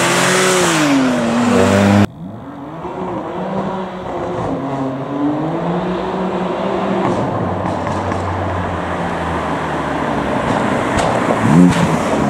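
Car engine revving hard, its pitch swinging up and down, over loud tyre noise while drifting; this cuts off suddenly about two seconds in. After that, quieter car engines rev up and down, and near the end one revs up sharply as a car passes close.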